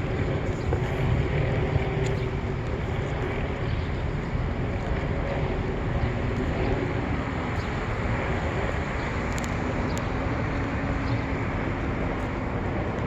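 Steady low mechanical rumble with wind noise on the microphone, and faint steady tones above it.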